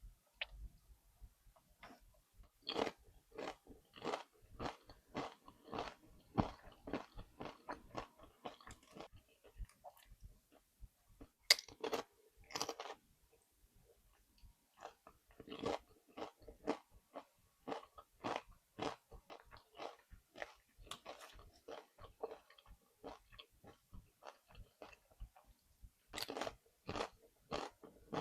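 Close-up crunching and chewing of nachos made with Doritos tortilla chips: steady runs of crisp crunches, about two or three a second, with short pauses between mouthfuls and two sharper bites about halfway through.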